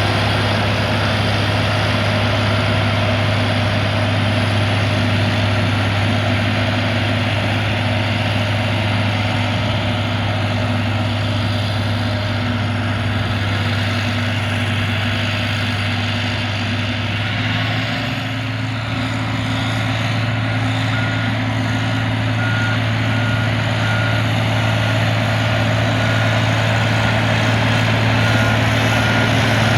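Caterpillar 140G motor grader's diesel engine running steadily while working, with a deep steady hum. About two-thirds of the way through, a reversing alarm starts beeping at a regular pace.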